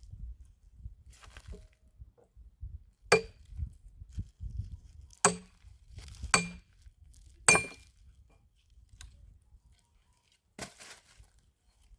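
Firewood being chopped: five sharp cracking strikes, spaced one to three seconds apart, some with a brief ring.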